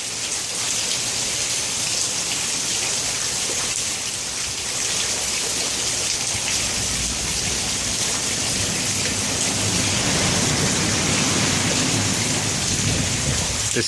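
Heavy rain pouring steadily, with a low rumble swelling in the second half.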